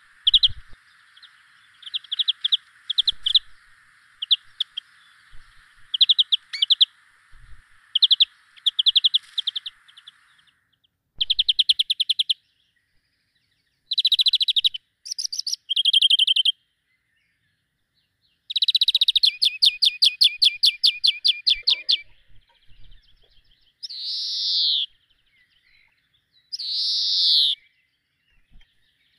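Small songbirds calling and singing: short chirps at first, then rapid trills, including one lasting about three seconds, and two short swooping notes near the end. A faint steady hiss sits under the first ten seconds.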